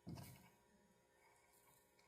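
A single brief soft knock just after the start, then near silence.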